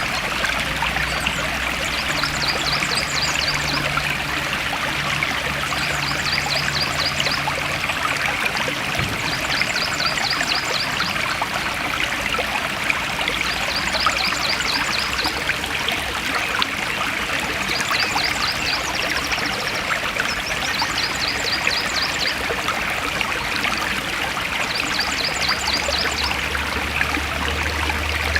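Forest stream flowing steadily with an even rushing and trickling. A high, rapid trill repeats every two to three seconds above the water.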